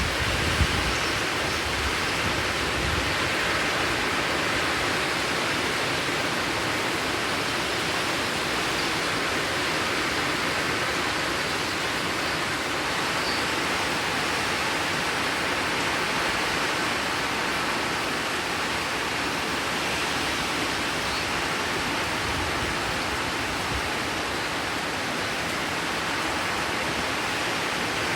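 Heavy rain falling steadily, a dense, even hiss, with brief low rumbles near the start and about three-quarters through.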